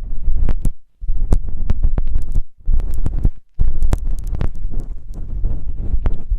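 Close-up ASMR ear sounds on a microphone: rubbing with a deep rumble and sharp crackling clicks. It stops briefly about a second in and again around three and a half seconds.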